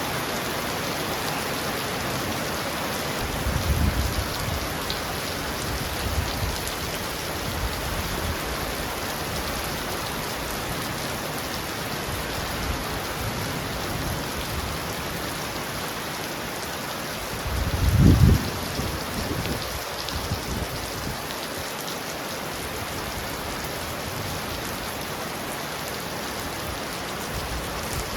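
Heavy rain falling steadily on a roof, with brief low rumbles of thunder about four seconds in and a louder one around eighteen seconds in.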